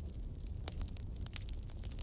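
Fire burning in a fireplace and crackling: irregular sharp pops and snaps over a low, steady rumble.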